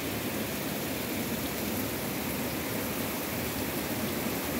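Heavy rain falling steadily, a continuous even hiss with no breaks.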